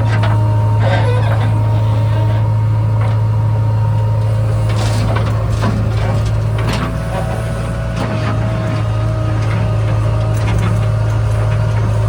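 Heavy diesel engine running steadily with a low, constant drone, with a few short knocks and clanks over it.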